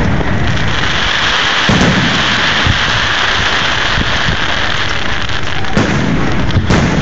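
Fireworks display: shells bursting with sharp booms about two seconds in and twice near the end, over a dense steady hiss and a constant low rumble.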